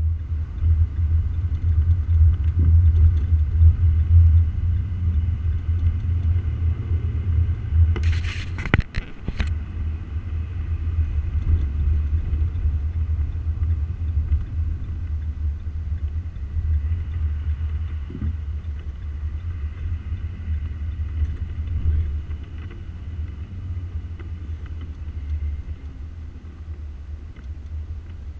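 Isuzu truck driving on the road: a steady low rumble of engine and road noise, with a brief loud clatter about eight seconds in.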